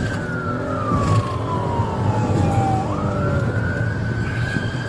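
Police car siren sounding a slow wail: one tone falls for about three seconds, then swings back up, over the running engine and road noise of the pursuing car.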